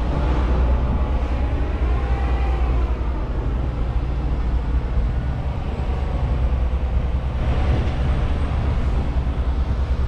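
Steady rumble and road noise of a vehicle under way, low engine drone with tyre and wind noise.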